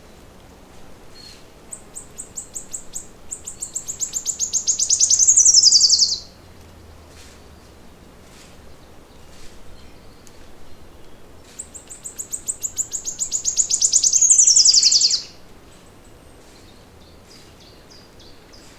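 A songbird singing two long, high, rapid trills, each growing steadily louder and ending in a quick falling sweep. Faint short chirps come between the songs.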